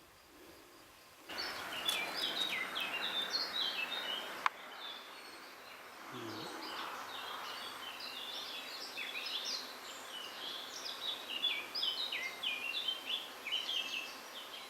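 Songbirds singing: a rapid, continuous run of high chirping notes over a steady background hiss. The sound comes in abruptly about a second in, and there is a single sharp click near the one-third mark.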